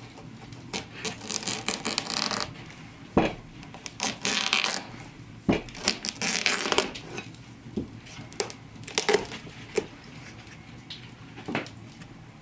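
Hands-on food preparation: three rough scraping or crunching strokes, each lasting about a second, with several sharp knocks of utensils or tools in between.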